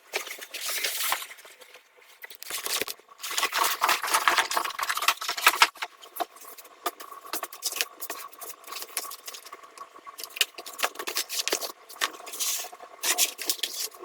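Crinkling and rustling of packaging and adhesive vinyl sheets being handled, with small irregular clicks and taps throughout, louder in short spells.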